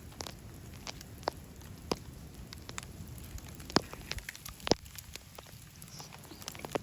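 Wood fire crackling: irregular sharp pops and clicks over a faint steady hiss, with two louder pops near the middle.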